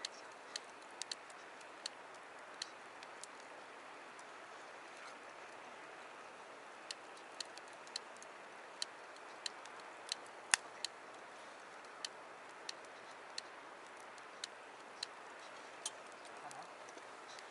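Wood campfire crackling: irregular sharp pops, one louder than the rest about ten and a half seconds in, over a steady hiss.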